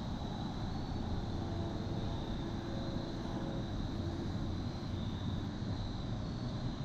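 Steady low rumble with no breaks, with a faint, wavering high-pitched hum above it.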